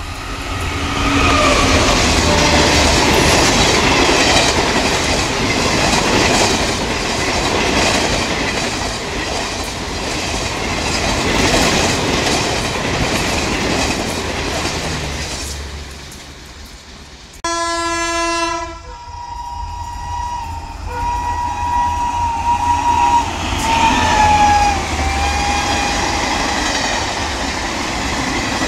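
A WAP5 electric locomotive and its express coaches rushing past at high speed, with steady wheel clatter and air rush. After a cut about two-thirds through, a train horn blasts for about a second and a half, and a second rake rushes past with a thin high tone wavering over the noise.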